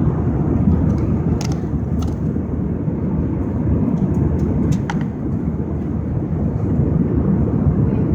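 Steady low rumble of noise inside an airliner's cabin, with a few short clicks about a second and a half in, at two seconds and near five seconds.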